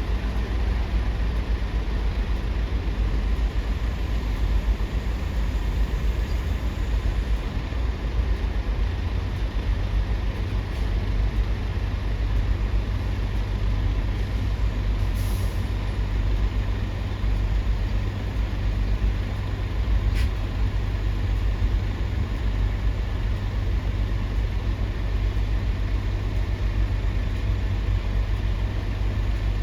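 Heavy diesel engines of port traffic running with a steady low rumble, with a short high hiss about halfway through.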